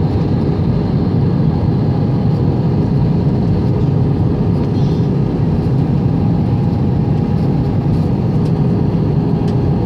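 Steady roar of airliner cabin noise, the engines and airflow heard from inside the passenger cabin during the approach to landing, with a faint steady hum above the deep rumble.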